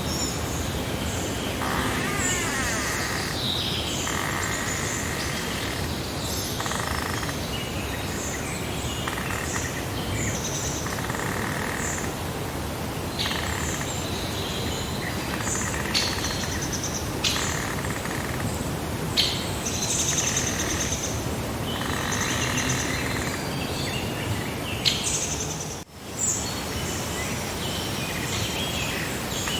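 Several birds singing and chirping, with short calls and trills, over a steady background of rushing noise. The sound drops out briefly near the end.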